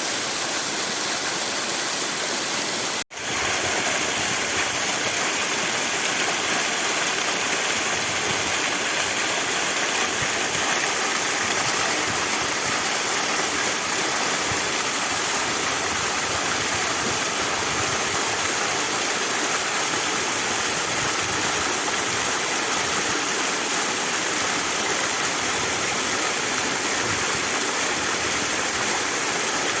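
Waterfall, a steady rush of falling water, briefly cutting out for a split second about three seconds in.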